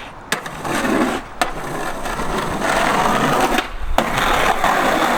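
Skateboard wheels rolling on pavement, with a few sharp clacks of the board, about three, spread through the rolling.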